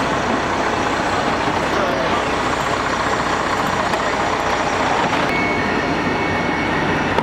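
Heavy vehicle engine running steadily, with indistinct voices under it. A thin, steady high tone comes in about five seconds in.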